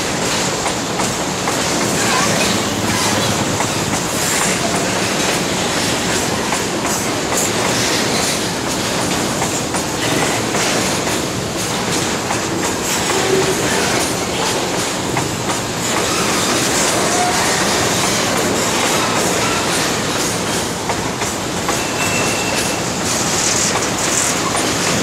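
Hopper cars of a metre-gauge freight train rolling past close by: a steady rumble of steel wheels on rail, with irregular clicks as the wheels cross the rail joints.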